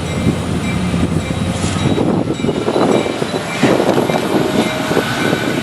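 Freight train rolling by, its railroad cars clattering steadily over the rails.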